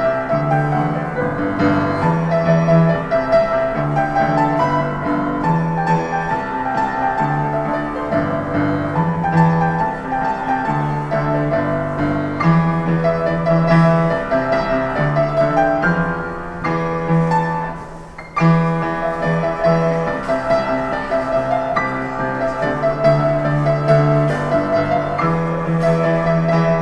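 Solo piano playing a fast pop tune, with a steady bass line under the melody and a brief break about eighteen seconds in.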